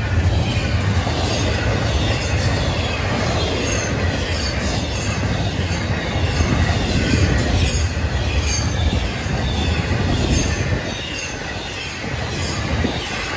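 Cars of a double-stack intermodal freight train rolling past close by: a steady, loud rumble of steel wheels on rail, with repeated clicks as wheels pass.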